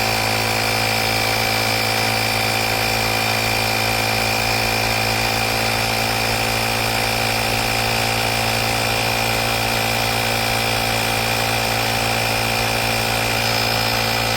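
Small air compressor built into a portable jump starter pack, running steadily as it inflates a car tyre toward 2.2 bar: an even motor drone with a constant high whine.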